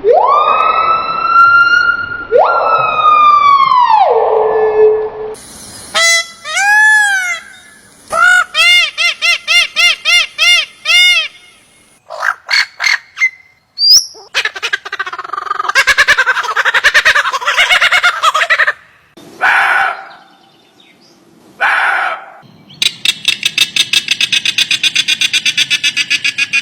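A string of different animal calls played one after another: two long calls that rise and then fall, runs of quick repeated chirping notes, some noisier calls, and a fast rattling pulse near the end.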